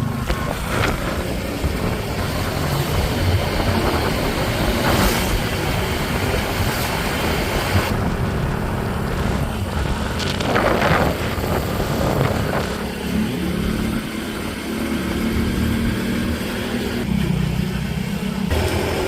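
Motorcycle engine running while riding, with the steady rush of wind and road noise. Its low hum holds steady, with a few brief swells.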